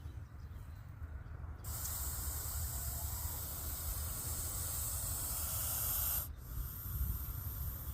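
Russell's viper hissing defensively, a sign that it feels threatened: one long, loud hiss like a pressure cooker's whistle starts about two seconds in and cuts off suddenly after four and a half seconds, followed by a softer hiss.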